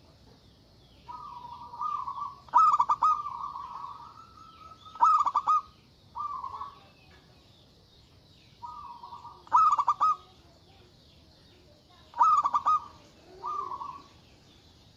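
Zebra dove cooing: about seven short rolling coo phrases in a row with gaps between them, the loudest ones broken into a quick trill of pulses.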